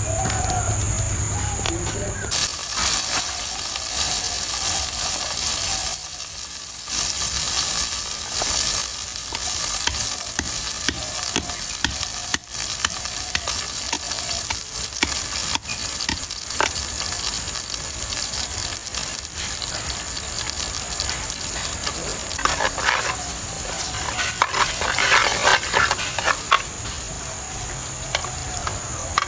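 Food sizzling as it fries in hot oil in a pan, with a spoon scraping and stirring it, the stirring busiest near the end.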